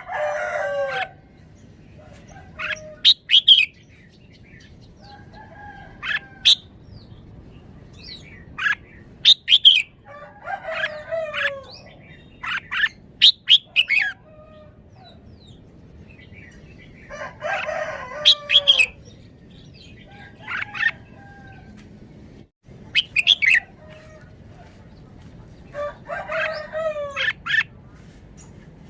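Red-whiskered bulbul singing short, clear phrases every few seconds. About four longer, lower calls that fall in pitch come in among them.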